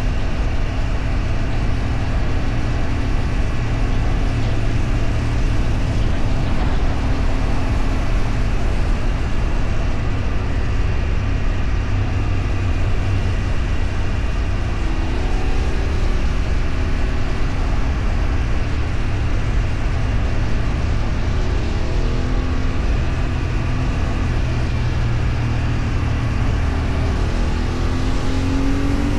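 A motor vehicle driving on the road, with a steady low rumble of engine and road noise. The engine note rises three times as it accelerates.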